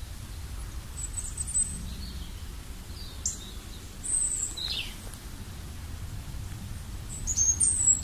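Wild birds chirping, short high calls and quick falling notes scattered through, the busiest cluster near the end. Under them runs a steady low rumble of outdoor background noise.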